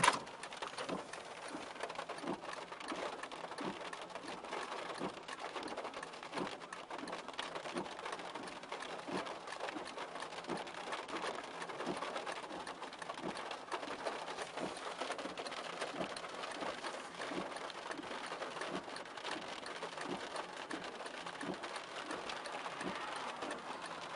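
Heavy rain drumming on a car, with the steady ticking of the hazard-light flasher, heard from inside the cabin. A single sharp click comes at the very start.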